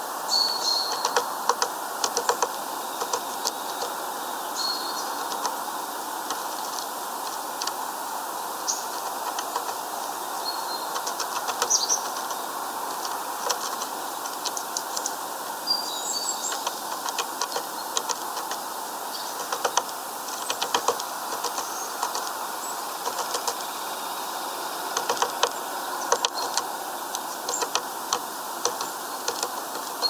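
Small bird feeding at a seed feeder: irregular sharp taps of its beak on seeds and the feeder, with short high chirps now and then, over a steady background rumble.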